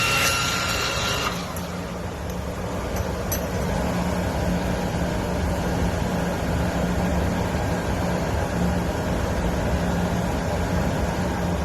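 Steady low machine hum with an even rushing noise; a higher whine over it stops about a second in.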